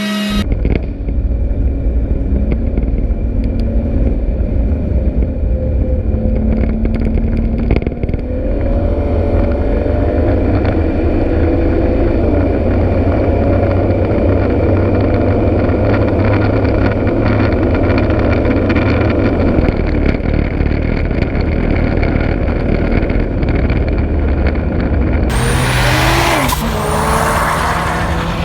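Single-turbo BMW N54 3.0-litre inline-six (Precision 6266 turbo) running loudly with a deep rumble. The pitch climbs slowly from about 8 seconds in. Near the end comes a brighter, hissing rush with a quick rise and fall in pitch.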